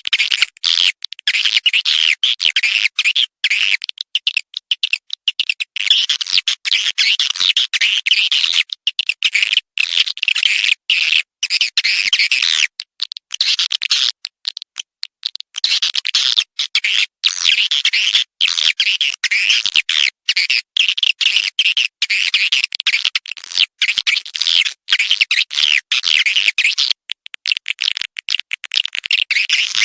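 Recorded swiftlet call track, the 'suara panggil' lure played to draw edible-nest swiftlets into a nest house: dense, high-pitched chittering twitters in quick runs, broken by many short gaps.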